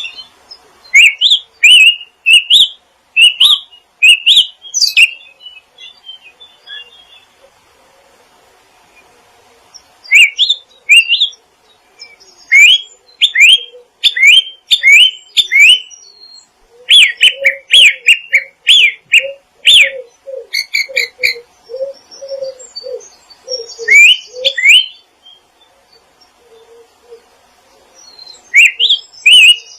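Small songbirds chirping in bouts of quick, repeated rising chirps, with pauses of a few seconds between the bouts. Through the middle a second, lower and softer call repeats alongside the chirps.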